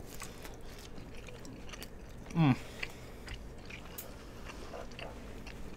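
A person chewing a chicken gyoza close to the microphone, with faint wet mouth clicks. About two and a half seconds in there is a brief hum of the voice that falls in pitch.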